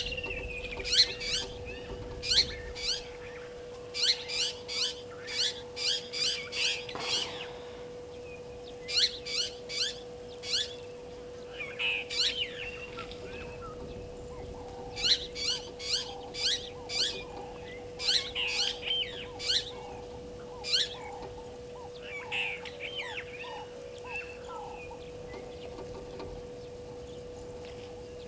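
A bird calling in runs of sharp, rapid notes, several to a run, with short pauses between the runs, over a steady low hum.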